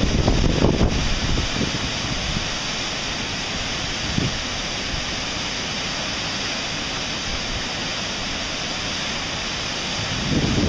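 Waterfall and river water rushing in a steady, even roar. Wind buffets the microphone with low rumbles in the first second and again at the very end.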